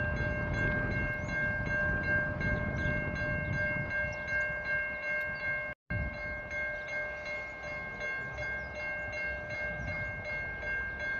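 A heavy freight train rolling slowly, its low rumble under a steady high ringing tone with a fast, even ticking above it. A brief dropout in the sound comes near the middle.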